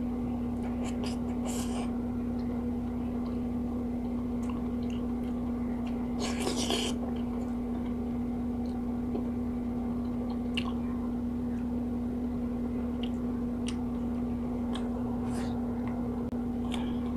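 A person chewing a mouthful of rice and fried fish with small mouth clicks and smacks, and one short breathy noise about six seconds in. A steady low hum runs underneath.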